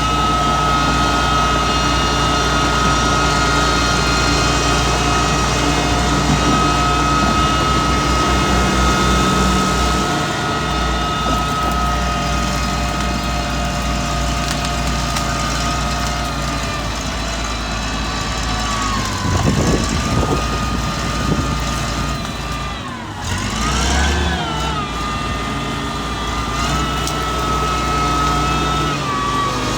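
Mitsubishi MG430 motor grader's diesel engine running steadily, with a constant high whine over it. About two-thirds of the way through, the engine speed dips and rises a few times, then settles again.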